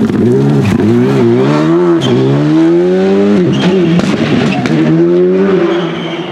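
Rally car engine revving hard, its pitch climbing and dropping several times in quick succession as the throttle and gears change.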